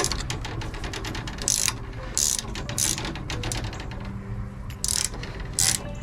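Ratcheting and clicking mechanical sounds of hand work on a walk-behind mower's drive cable and handle, coming in several short, irregular bursts over a low steady hum.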